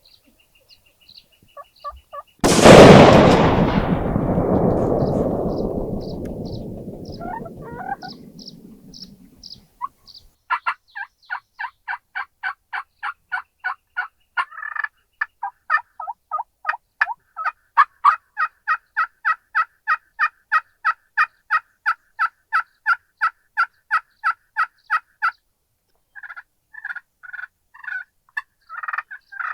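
A single loud shotgun blast a little over two seconds in, rolling away in a long echo for several seconds. Then a turkey calls in short, sharp, evenly spaced notes, about three a second for some fifteen seconds, with looser, faster calling near the end.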